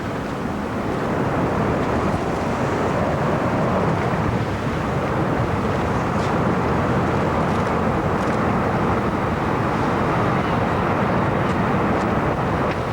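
Steady rushing noise of a moving vehicle with wind, with a few faint ticks.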